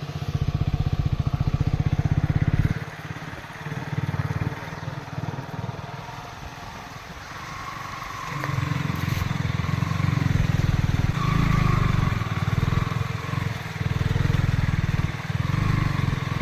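Motorcycle engine revving hard for the first few seconds, dropping back, then revving again in uneven surges from about halfway through.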